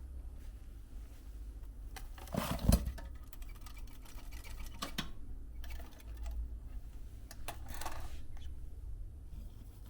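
A few short clatters and rustles of small objects being handled, the loudest cluster about two and a half seconds in, over a low steady rumble.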